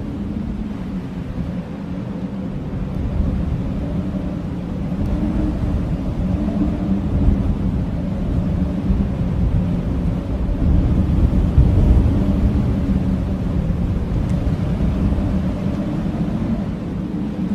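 Strong blizzard wind blowing as a steady low rumble, with a faint howling tone that swells and eases.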